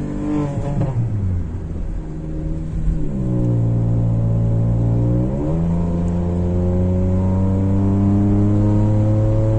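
Remapped Volkswagen Polo GT TSI's turbocharged petrol engine, breathing through an aftermarket valvetronic exhaust and heard from inside the cabin. The engine note drops away in the first second or so, then climbs again about three seconds in to a strong steady drone that rises slowly toward the end as the car accelerates.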